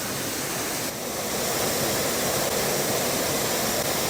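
Waterfall rushing: a steady, dense noise of falling water that gets a little louder about a second in.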